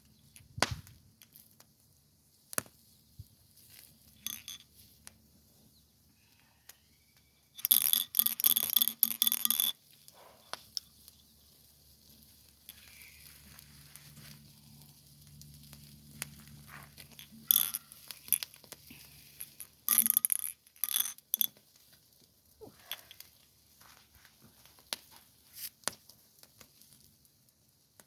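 Intermittent handling noises: scattered clicks and clinks of small objects being moved about, with a dense burst of clatter lasting about two seconds some eight seconds in and a few more sharp clicks later on.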